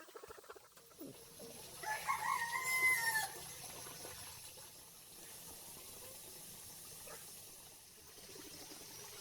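A rooster crowing once, about two seconds in: a single pitched crow of about a second and a half that rises, holds and drops at the end. A faint steady background sound lies under it.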